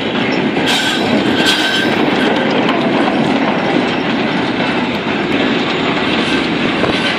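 Railway wagons rolling along the track, their wheels clattering steadily over the rail joints, with a brief high wheel squeal about a second in.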